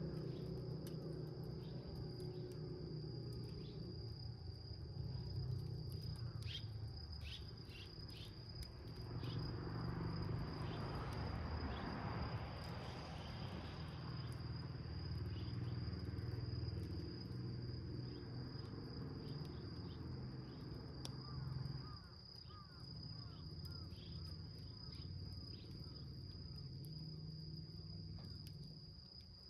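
Insects chirring in one steady high note, over a small wood fire crackling with scattered sharp pops and a low rumble of flame.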